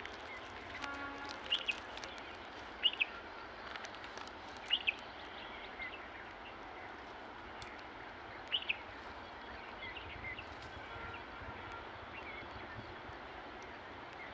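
Wild parakeets giving short, high calls every second or two, some in quick pairs, over a steady background hiss.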